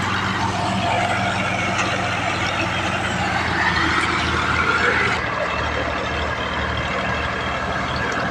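Tractor diesel engine running steadily and loudly, with a low, even drone under a broad hiss. The hiss drops away abruptly about five seconds in while the engine note carries on.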